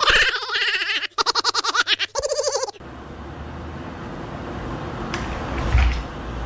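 Three loud, wavering animal calls in quick succession, each with a fast quaver, followed by a quieter steady background hiss.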